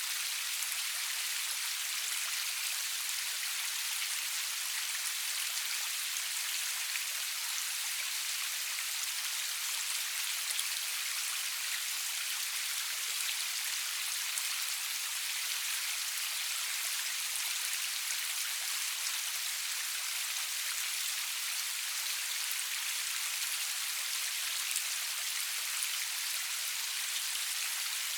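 Steady rain falling, a dense even hiss of many fine drops with nothing low or booming and no thunder.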